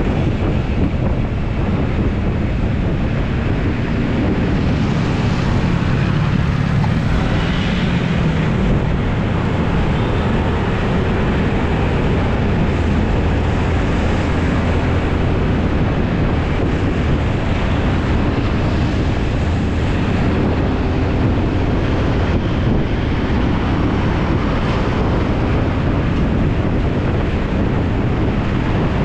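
Carburetted Honda Beat scooter riding along, its single-cylinder engine running steadily under strong wind buffeting on the microphone.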